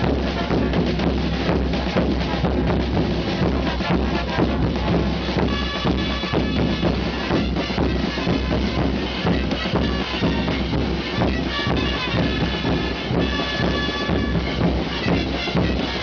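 Live drum-led band music for a festival religious dance, with constant drum beats. A sustained high melody joins about six seconds in.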